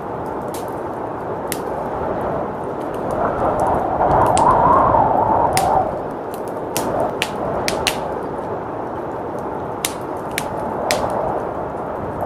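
Wood fire crackling with scattered sharp pops over a steady rush of blizzard wind, which swells louder for a few seconds near the middle.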